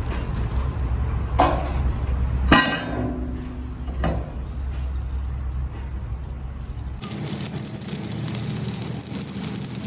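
Steel parts struck three times, each a sharp clink, the second ringing for a moment, over a low steady drone. About seven seconds in the sound changes abruptly to a steady crackling hiss.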